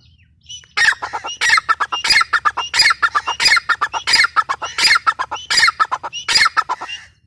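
Gray francolin (teetar) calling loudly, a rhythmic series of about nine repeated multi-note phrases, one every 0.7 seconds or so, starting just under a second in and stopping near the end.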